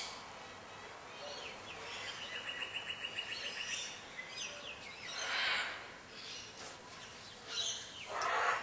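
A bird trilling outdoors, a fast run of repeated high notes lasting about two seconds, over steady background noise. Two brief swells of hiss-like noise follow, one about five seconds in and one near the end.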